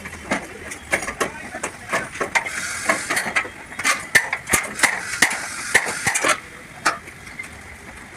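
Irregular metal knocks and clinks of hand tools working on sheet metal during truck cab dent repair, coming thickest through the first two thirds and thinning out near the end.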